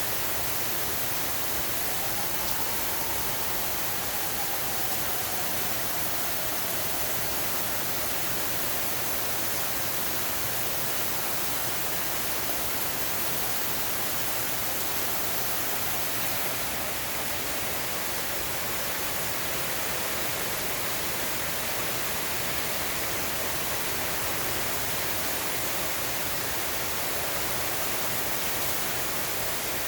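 Steady rain falling, an even hiss with no breaks. A faint tone rises and falls a few seconds in.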